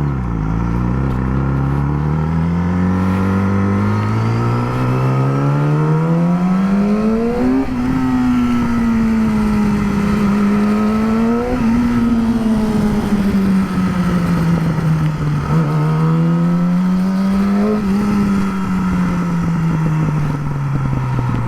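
Yamaha R6 inline-four with a slip-on exhaust, ridden under way: the revs climb steadily for the first eight seconds, then rise and fall a few times as the throttle is worked, and drop away near the end, with the exhaust popping on the overrun.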